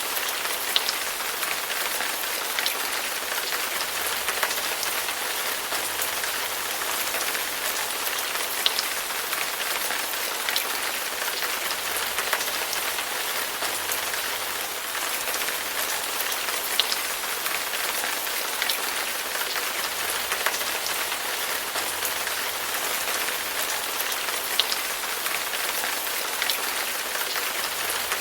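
Steady rain falling: a dense, even hiss of drops, with scattered sharper single drop ticks a few times.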